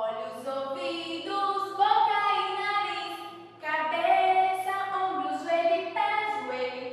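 A woman singing a song, with long held notes that step from pitch to pitch.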